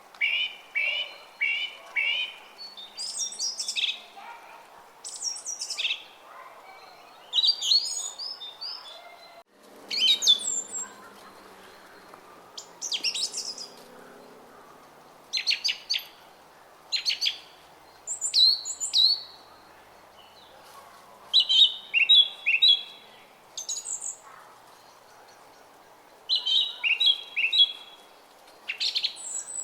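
A small songbird singing short, loud phrases of quick chirps and sweeping notes, repeated every second or two, over a faint steady babble of a brook.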